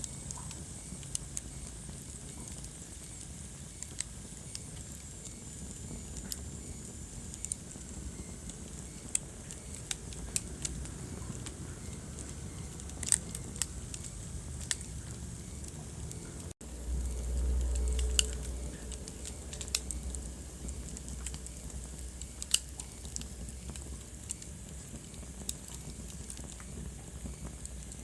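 Wood fire crackling, with irregular sharp pops and snaps over a steady low rumble of flames. About halfway through the sound drops out for an instant, then the low rumble swells for a couple of seconds.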